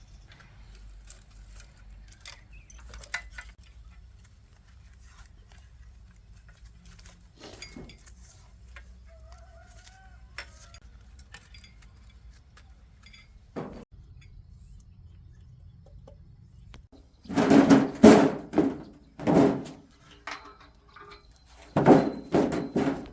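Small metal parts clinking and being handled over a low hum, then, in the last six seconds, a power tool running in several short bursts.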